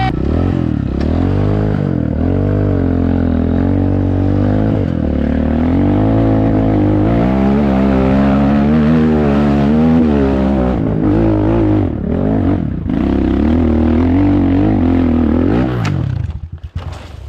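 Enduro motorcycle engine revving hard, its pitch rising and falling again and again as the throttle is worked. Near the end the sound drops away suddenly.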